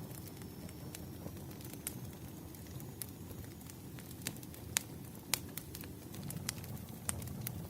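Campfire crackling: a steady low rumble of burning wood with scattered sharp pops, the two loudest about five seconds in.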